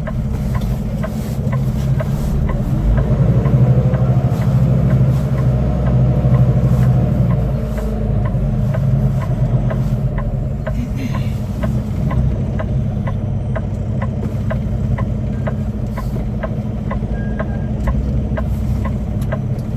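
Semi truck's diesel engine running, heard from inside the cab as it moves slowly through the yard, swelling louder for a few seconds early on, with a light, regular ticking about twice a second.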